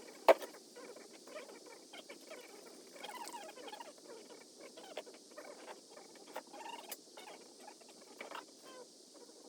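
Small irregular scrapes, rustles and light clinks of objects being handled and moved about, with one sharp clack about a third of a second in.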